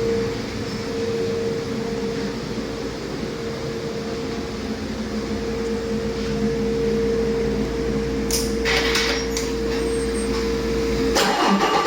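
Detroit Diesel DD15 heavy-duty diesel engine running on a test run: a steady hum with a held whine. Near the end the sound changes abruptly to a harder clatter.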